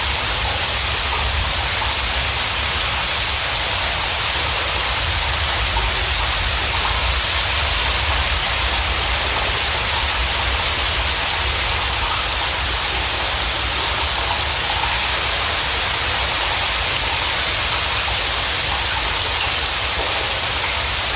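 Steady rain falling, an even continuous hiss with a low rumble underneath and no change throughout.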